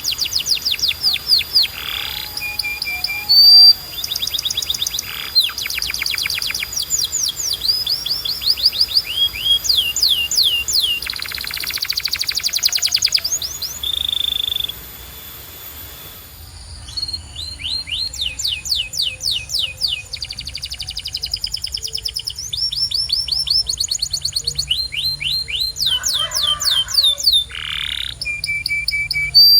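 Canary singing: fast trills of repeated downward-sweeping notes, one run following another, with a short pause about halfway through.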